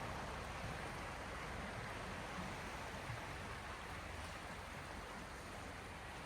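Small sea waves washing continuously against the shore, a steady even hiss of water that eases slightly toward the end.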